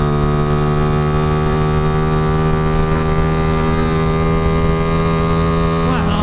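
Yamaha Jupiter Z underbone motorcycle's single-cylinder engine running steadily at cruising speed, its pitch easing slightly downward, with wind rush on the helmet-camera microphone.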